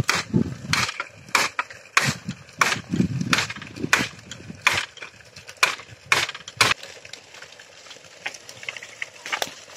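Footsteps crunching through dry leaves and brush at a walking pace, about one step every 0.6 s, growing fainter after about seven seconds.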